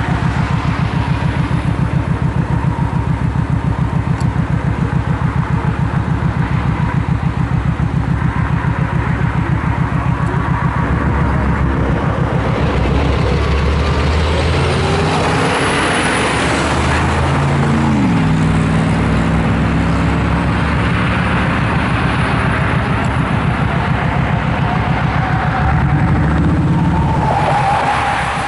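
Motorcycle engine idling with an even, pulsing beat while stopped. Other vehicles pass close by; one engine note falls in pitch as it goes past about two-thirds in, and another passes near the end.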